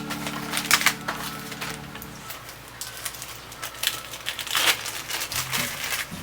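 Quick clicks and clatter of household items being handled, over soft background music that drops out about two seconds in and returns near the end.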